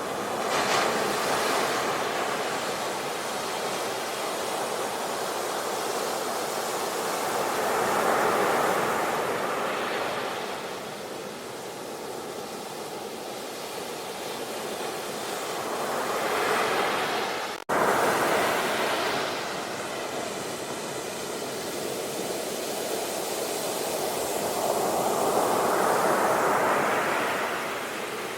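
Ocean waves surging and breaking on the shore, the sound swelling and falling back in slow surges about every eight seconds. The sound cuts out for an instant about two-thirds of the way through, then resumes.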